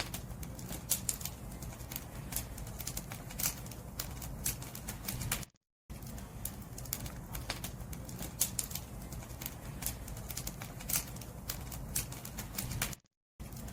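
Burning firewood crackling: a steady low rumble of flames with frequent sharp, irregular pops and snaps. The sound cuts out to silence twice, about halfway through and near the end.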